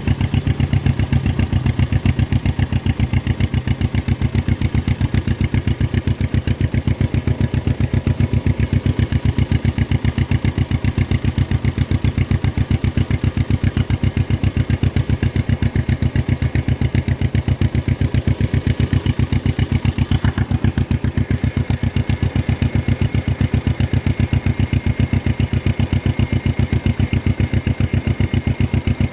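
1953 John Deere 40 tractor's two-cylinder engine running steadily with an even, rapid putt-putt beat.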